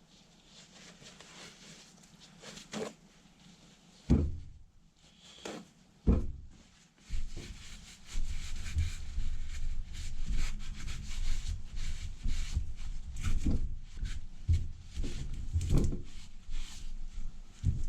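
Hand work on an old starter motor's housing: two sharp knocks, then continuous irregular scraping and rubbing, typical of crud being scraped off the casing.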